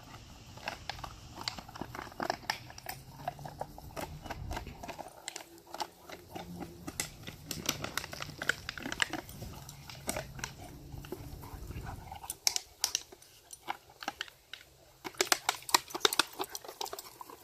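Puppies chewing and mouthing, a steady run of small sharp clicks and snaps that grows busier near the end.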